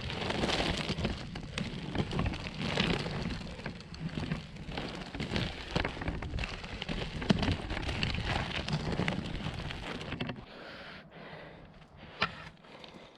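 Crunching, crackling rolling noise of off-road inline skates' 125 mm air-filled wheels on a packed-rock and gravel trail surface, with many small clicks of stones. About ten seconds in it drops away to a much quieter background with a few scattered clicks.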